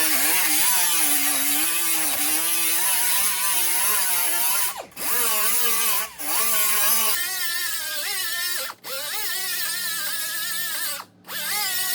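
Electric grinder grinding down welds on a car's steel body panel. Its whine wavers in pitch as it bites into the metal. It drops out briefly four times, and runs higher-pitched over the second half.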